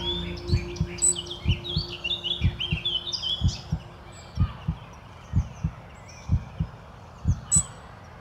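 Recorded heartbeat, a double thump (lub-dub) about once a second, with birds chirping over it, busiest in the first half. A held low tone fades out about four seconds in.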